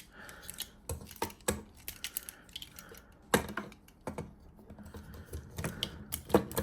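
Hard plastic toy figure being handled and posed by hand: scattered small clicks and taps of plastic parts and joints, with a few sharper clicks.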